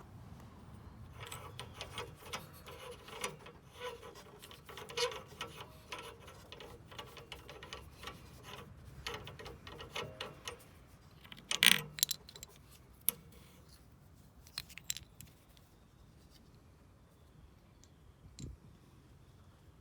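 Small metal parts of a tractor's air-filter housing clinking and rattling as they are handled and taken apart, with one loud knock about halfway through.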